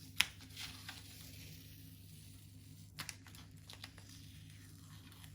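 Tape being peeled slowly off smooth watercolour paper: a soft tearing rasp near the start and a few sharp crackling clicks about three seconds in.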